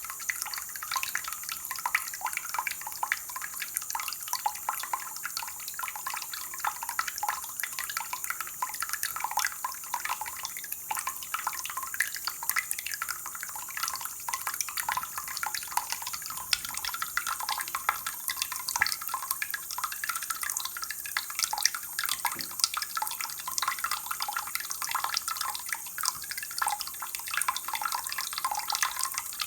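Water dripping and splashing in a rapid, uneven patter of many small drops a second, steady in level.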